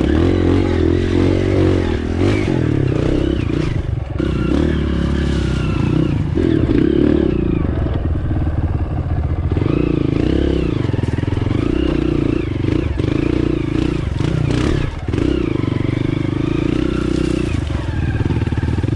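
Dirt bike engine running at low speed, its note rising and falling as the throttle is opened and closed.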